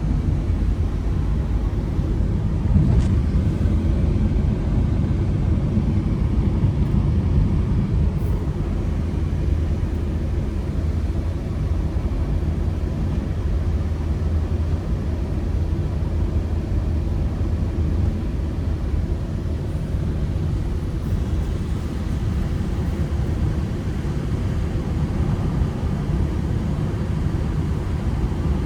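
Ford Transit Connect van's petrol engine running under way with road rumble, a steady low drone at even speed.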